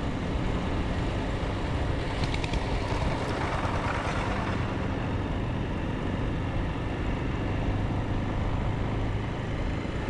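Motorcycle running on the road with steady engine drone and wind and road noise. A louder rushing swell builds and fades about two to four seconds in.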